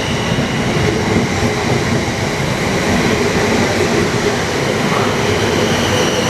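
South Western Railway Class 444 electric multiple unit running past on the rails, a loud, steady rolling noise of wheels on track.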